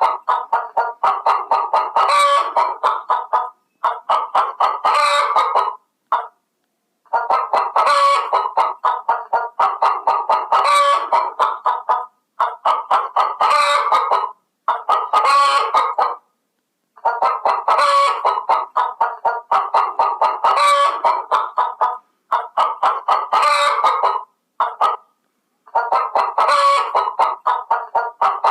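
Chickens clucking in rapid runs, in stretches of a few seconds that break off abruptly with short silences between them.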